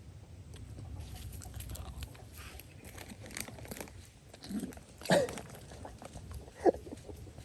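An animal crunching and chewing food, many small crackles in a row, with two louder short sounds, one about five seconds in and one near the end.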